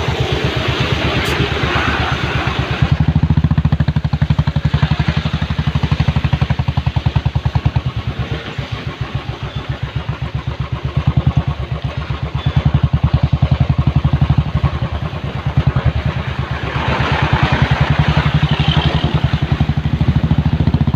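Motorcycle engine running at low speed in slow traffic, a steady rapid pulsing throbbing, with a hiss that swells twice.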